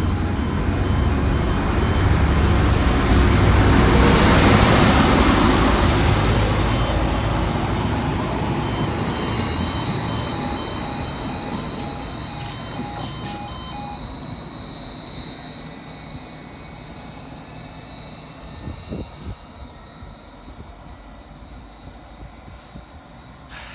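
Greater Anglia Class 755 Stadler FLIRT bi-mode unit pulling away from the platform. It is loudest a few seconds in, with a rising whine and a steady high tone, then fades as it draws away.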